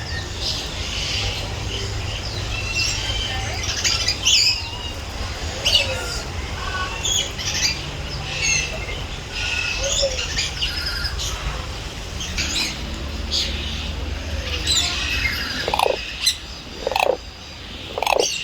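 Many birds chirping and calling, a busy mix of short high calls over a steady low rumble, with three louder, lower calls near the end.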